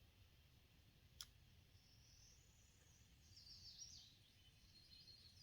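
Near silence with faint bird chirps in the background and a low outdoor rumble; a single sharp click about a second in.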